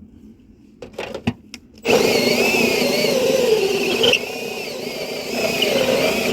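Power drill boring through a wooden rim joist: a few short bursts about a second in, then a steady run with the motor's pitch wavering under load, easing slightly past the middle and stopping at the end.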